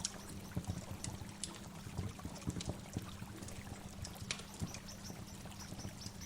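Waterfall: water pouring and splashing continuously, with many irregular small splashes and drips.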